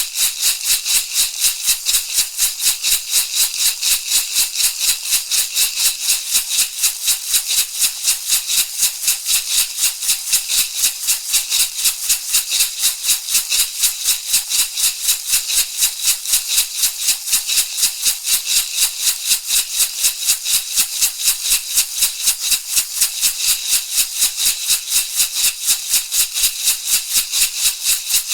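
Shamanic rattle shaken in a steady, even rhythm of about four strokes a second, each stroke a bright, dry swish of seeds or pebbles.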